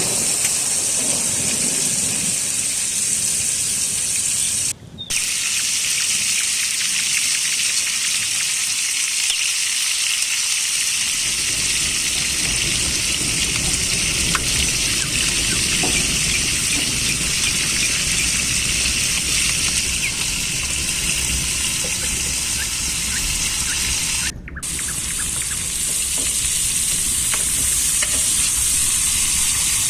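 Lamb and vegetables sizzling steadily in a saj pan over a wood fire. The hiss drops out briefly twice, and a low rumble joins it after about ten seconds.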